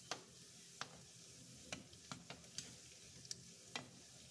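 Sweet potato fries sizzling faintly in oil in a nonstick skillet, with a series of sharp clicks and taps as tongs turn them against the pan.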